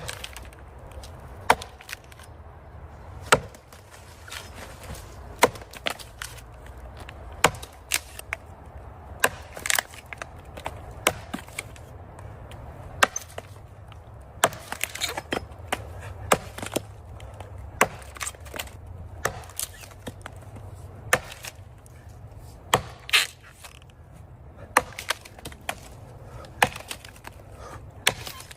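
Axe chopping into a large tree trunk: sharp, regular strokes about every two seconds, some followed by smaller knocks.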